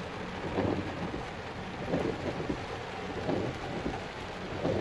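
Heavy rain falling on a car's roof and windshield, heard from inside the car, with an uneven patter of heavy drops.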